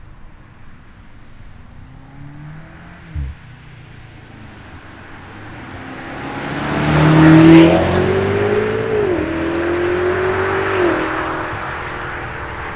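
BMW G99 M5 Touring's twin-turbo V8 through a DCE cat-back exhaust with the OPF deleted, accelerating hard past the listener. It builds from quiet to loudest just past the middle, and shifts up twice, each shift a brief drop in pitch.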